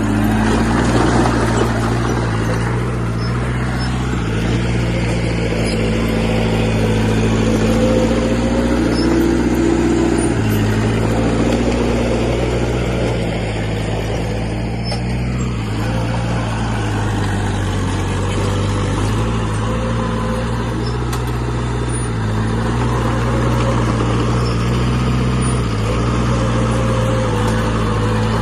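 Diesel engine of a heavy earthmoving machine running hard. Its pitch shifts in steps several times as the revs change under load.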